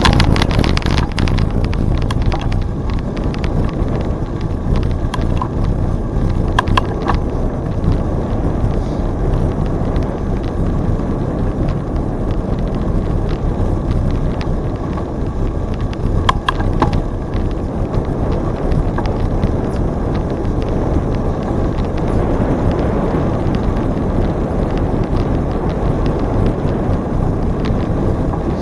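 Bicycle riding along a trail, with wind buffeting the microphone and steady tyre and road noise. Short rattles come through about 7 seconds in and again about 16 seconds in.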